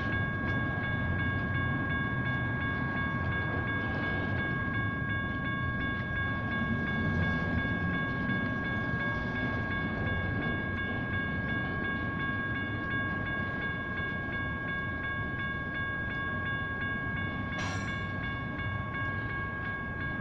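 A double-stack intermodal freight train rumbles steadily past while the grade crossing's General Signals Type 1 bells keep ringing with the gates down. Near the end there is one brief, sharp clank from the passing cars.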